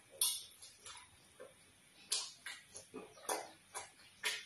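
Close-miked chewing and lip smacks from a person eating vegetable soup and fufu: irregular clicking mouth sounds, a few louder smacks roughly a second apart.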